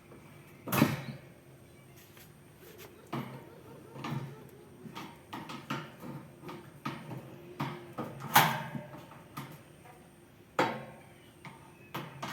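Irregular clicks and knocks of tools and fan parts being handled during a repair, with three louder knocks about a second in, about eight seconds in and near the end.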